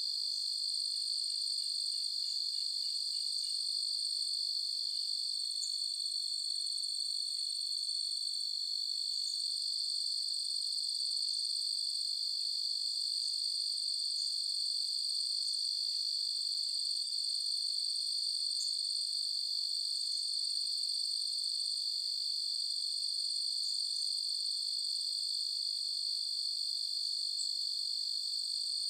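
Crickets trilling in a steady, unbroken high-pitched night chorus. A faint quick run of softer chirps comes about two seconds in.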